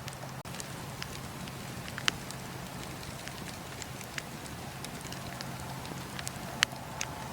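Wood fire burning: a steady hiss with scattered sharp crackles and snaps, and two louder pops, one about two seconds in and one near the end.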